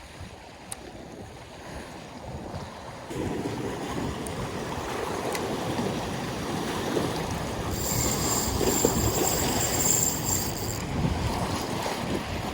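Rushing water from a swollen, rough river, with wind on the microphone; the rush grows louder about three seconds in. A high buzz runs for about three seconds in the second half.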